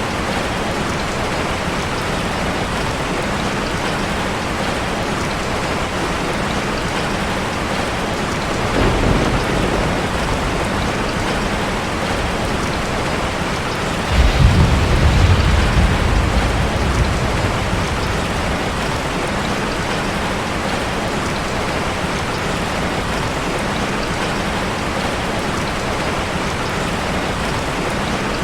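Steady rushing water from a waterfall ambience, with two deep rumbles: a small one about nine seconds in, and a louder one that starts suddenly a few seconds later and fades over about four seconds.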